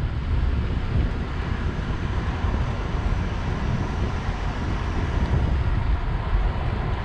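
Wind rumbling steadily on the microphone of a moving electric bike, with a faint constant whine above it.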